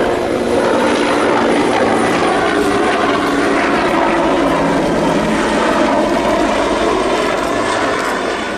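Aircraft engine noise from an aircraft close by: a loud, steady rush with some tones in it that eases off near the end.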